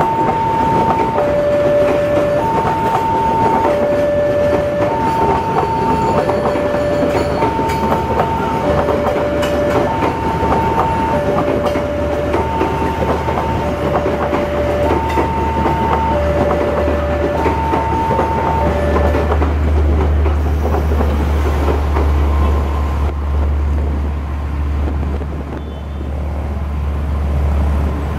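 Passenger-train coaches rolling over a level crossing with a clickety-clack of wheels. The crossing's warning siren alternates steadily between a higher and a lower tone, then stops about two-thirds of the way through. After that, a low engine rumble from the traffic waiting at the barrier is left.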